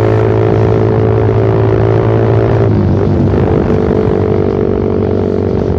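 Suzuki Satria FU Fi single-cylinder engine under way, heard through a short Pro Liner aftermarket muffler with its dB killer removed. The exhaust is loud and holds a steady note, with a brief dip and recovery in revs about three seconds in.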